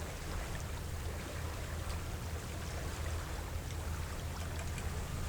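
Steady low wind rumble on the microphone with an even wash of water moving along a sailboat's hull under sail.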